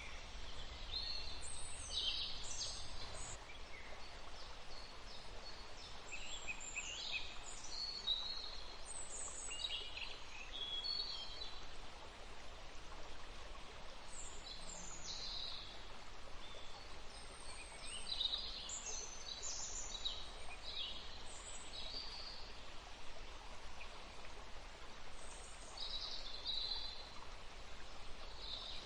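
Several songbirds chirping and calling in short bursts over a steady background hiss, with quiet stretches between the bursts of calls.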